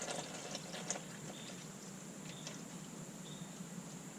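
Engine oil draining slowly from the oil pan of a Ford 5.0 V8 into a catch pan, a faint trickle with a few small drip ticks in the first second. A faint steady hum runs underneath.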